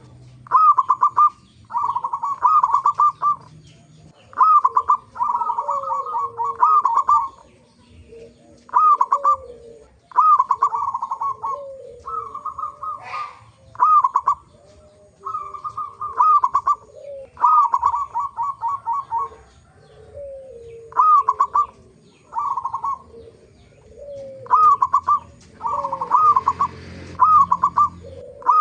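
Zebra doves (perkutut) cooing: short phrases of rapid, staccato coos repeating every second or two, with fainter, lower falling notes between them.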